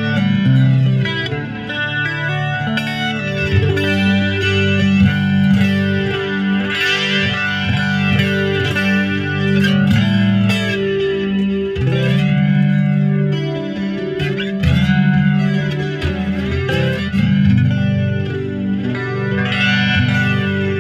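Mexican-made Fender Stratocaster electric guitar played on its neck pickup through a clean amp setting with a light chorus: sustained chords and picked notes, with a slow, repeating swirl through the tone.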